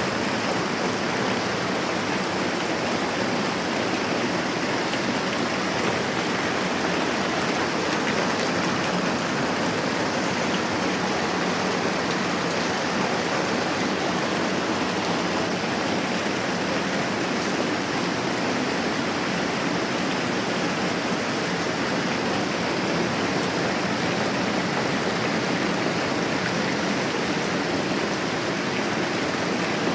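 Moderate rain falling steadily, an even hiss with no let-up.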